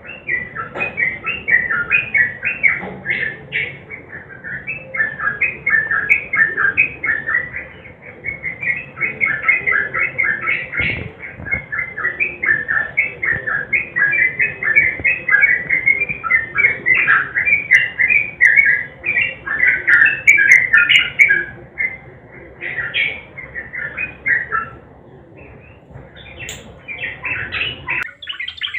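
Sooty-headed bulbul (trucukan) singing a long, fast run of short chattering notes, with a couple of brief pauses. Near the end it gives way to a rapid, even trill.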